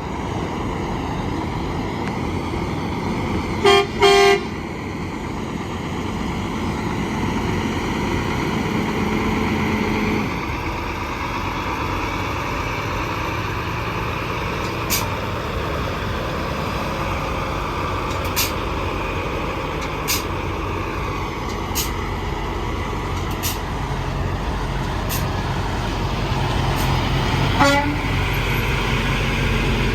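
Interstate highway traffic with heavy trucks passing, and a horn giving two short toots about four seconds in. Sharp ticks come every second and a half or so in the middle, a brief horn-like blast sounds near the end, and a truck engine's hum builds as it comes near.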